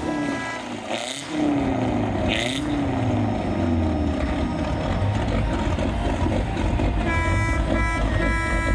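Truck engine running with a steady low rumble. Near the end a horn sounds: two short toots, then a longer blast.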